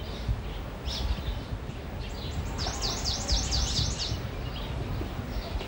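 A small bird singing: a few single high chirps, then about two and a half seconds in a fast run of about eight falling chirps lasting a second and a half, over a steady low rumble.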